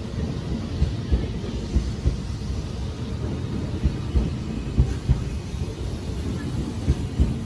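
JR East E657 series limited express train running past the platform: a steady low rumble of wheels on rail, with irregular heavier knocks.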